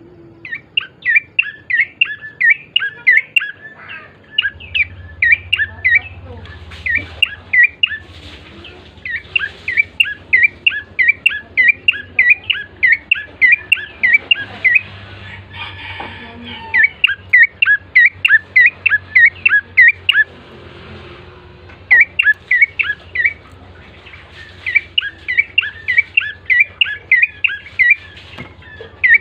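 Prenjak coki songbird calling in long rapid strings of sharp, loud chirps, about four a second, broken by short pauses. A faint low hum sits underneath from about four seconds in.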